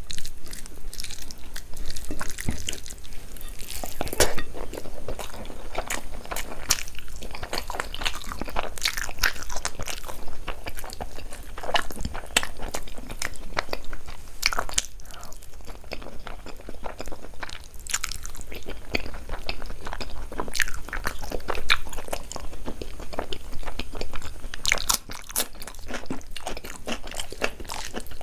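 A person chewing and biting food close to the microphone, a constant uneven run of short crisp clicks and crunches.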